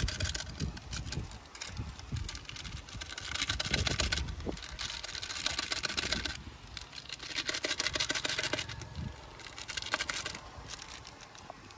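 Masala frying in hot oil in a pan, sizzling and crackling in bursts that swell and die away every second or two.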